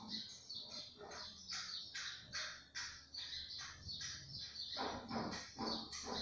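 Small birds chirping in quick, high, repeated chirps, several a second, louder and fuller in the last second or so.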